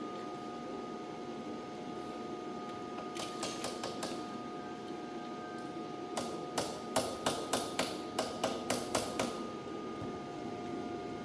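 A hammer striking about ten times in quick succession, roughly four blows a second, over a steady background hum.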